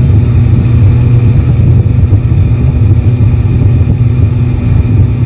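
Yamaha Tracer 9 GT's three-cylinder engine running at a steady, even pitch under a heavy, loud low rumble.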